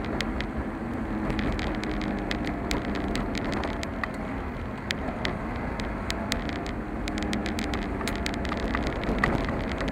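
Car driving along a road, a steady rumble of engine and tyres with frequent small sharp clicks and rattles.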